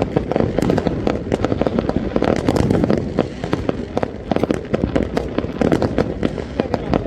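Fireworks going off in a dense, continuous barrage: many overlapping cracks and bangs over a low rumble.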